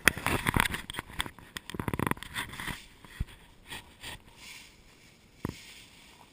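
Rustling and scraping with many short clicks and knocks. These are dense in the first three seconds, then thin out, with one sharp knock about five and a half seconds in.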